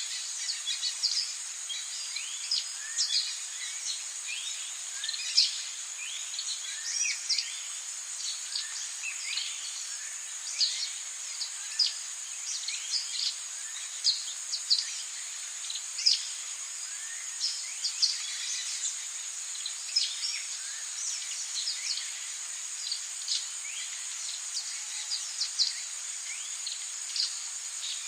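Rainforest ambience: a steady, high-pitched insect drone with many short bird chirps and calls scattered throughout.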